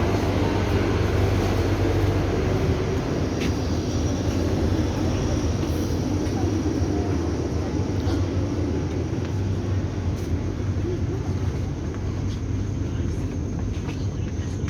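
Steady running noise of the Vande Bharat Express electric trainset heard from inside the coaches: a low rumble under an even rushing sound, with a few faint clicks.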